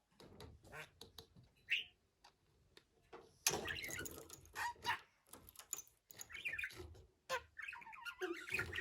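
Budgerigar chattering: scattered clicks and short chirps at first, then a dense stream of warbling chatter from about three and a half seconds in.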